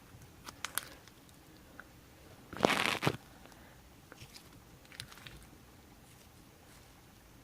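Hands mixing clay into slime: scattered small clicks and crackles, with one louder crunchy rustle lasting about half a second near the middle.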